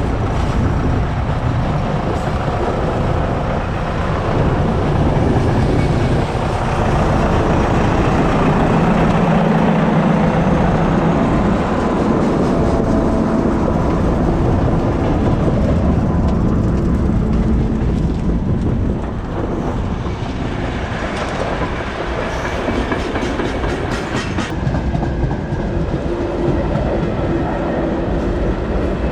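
Rail vehicle running along the track: a steady, loud rumble with wheel clatter on the rails.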